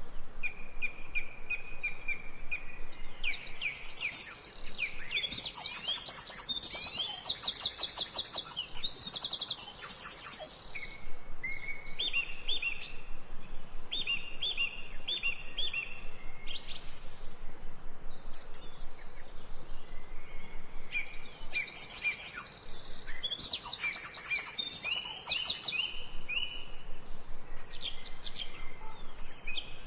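Several songbirds chirping and singing: runs of short repeated notes and fast high trills, over a faint steady background hiss.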